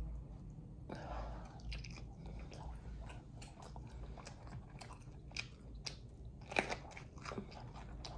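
Close-miked mouth sounds of a person chewing and biting food: a run of wet clicks and small crunches, with one louder crunch about six and a half seconds in.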